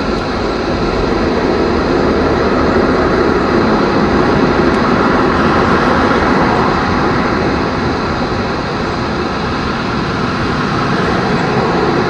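Steady aircraft noise, a continuous drone with no breaks, swelling slightly a couple of seconds in and easing a little later on.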